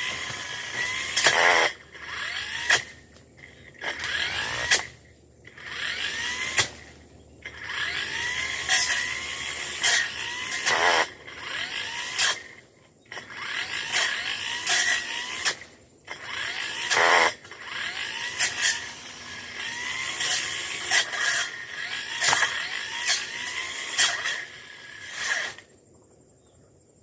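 Tanzu brush cutter engine revving up and down over and over as it cuts brush, its pitch sweeping up on each throttle burst and dropping away between, with many sharp clicks. It falls quiet near the end.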